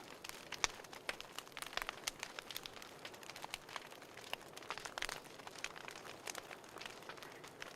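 Wood fire crackling in a fireplace: a steady run of irregular sharp pops and snaps over a soft hiss.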